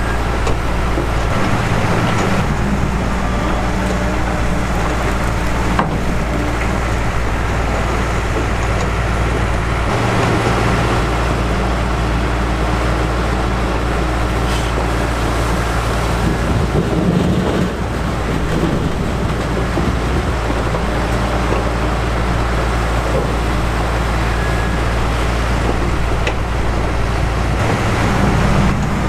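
Heavy diesel beet-harvesting machinery running steadily under load: a loud, constant engine drone with no break, dipping briefly about two thirds of the way through.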